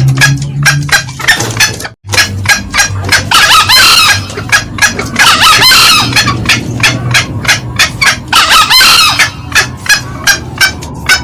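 Green junglefowl calling: a steady run of clucking cackles, about three or four a second, broken by three short, hoarse crows some two to three seconds apart. The recording drops out for an instant near two seconds in.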